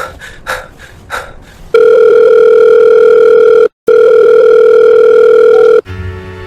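A few quick clicks, then a loud steady electronic beep tone like a telephone line tone, held about two seconds, broken for an instant, and held about two seconds more before it cuts off. Sad string music starts near the end.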